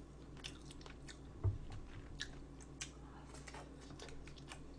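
A person chewing food close to the microphone: soft crunching and small wet clicks, with one dull low thump about a second and a half in.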